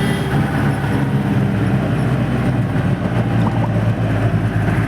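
Off-road jeep's engine running steadily as it drives, a continuous low hum with road noise over it.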